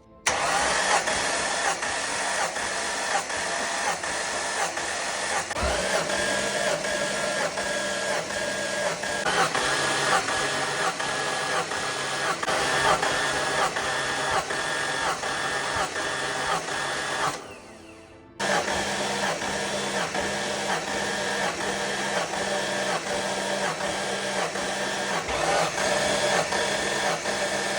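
Starter motor cranking an engine with its spark plugs out for a compression test. It is a steady whir that dips in an even pulse about twice a second as a cylinder comes up on compression. It stops abruptly just after 17 s, then cranks again about a second later.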